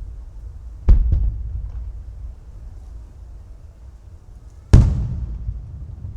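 Aerial firework shells bursting over the sea: a sharp bang about a second in, with a smaller one just after it, then a louder bang near the end that trails off slowly.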